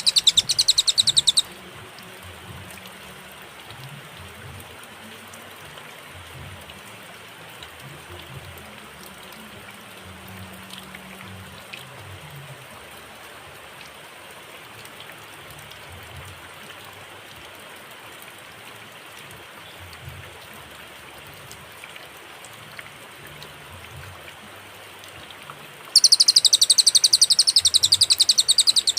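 Cililin bird song: a rapid, high trill of quickly repeated notes for about a second and a half. A long pause follows, with only faint background hiss. The next trill starts about three seconds before the end.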